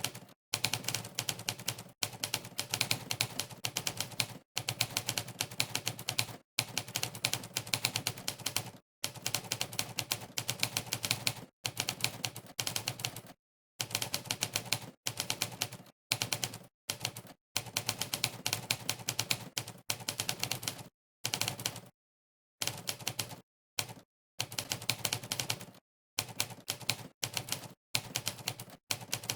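Monkeytype's typewriter keystroke sound effect: rapid typewriter-key clicks, one per keypress, in runs of a second or two broken by short gaps of dead silence.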